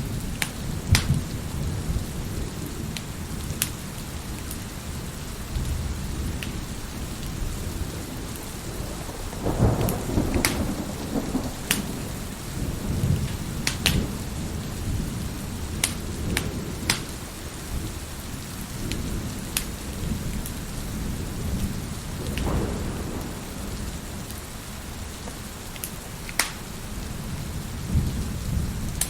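Wood fire crackling in a fireplace, with sharp pops every second or two, over steady heavy rain and low rolling thunder that swells about ten seconds in and again a little past twenty seconds.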